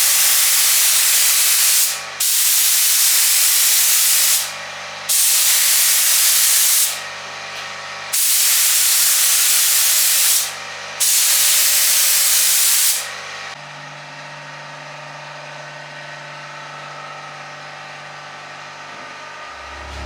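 Paint being sprayed onto car bodywork, a loud even hiss in five passes of about two seconds each with short breaks between. After the last pass, about two-thirds of the way through, only a quieter steady hum remains.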